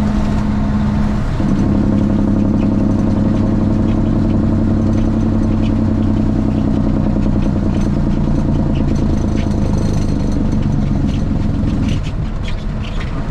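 Straight-piped Cummins ISX inline-six diesel of a Kenworth T800 semi truck running steadily, heard from inside the cab. Its drone breaks off briefly about a second in and comes back at a slightly different pitch, then eases and gets a little quieter near the end.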